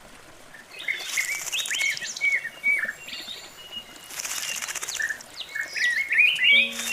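Black-breasted thrush singing: two bouts of varied whistled phrases, the first starting about a second in and the second around four and a half seconds in.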